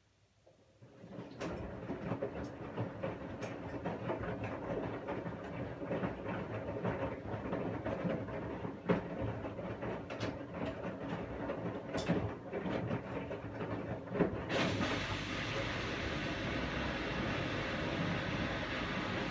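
Washing machine starting up again after a pause. The drum turns with a steady rumble and scattered knocks and clicks of tumbling laundry. About fourteen seconds in, the sound changes to a smoother, steady rushing hiss.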